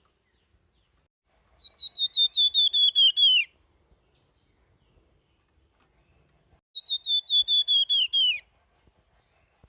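Flamboyan songbird singing its flute-like whistled song: two phrases of rapid repeated high notes, about six notes a second, each phrase lasting about two seconds and dipping in pitch at its end.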